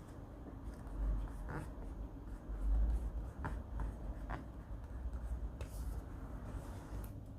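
Pen writing on a paper diary page: light scratching on the paper, with a few small clicks and low thumps from handling on the desk.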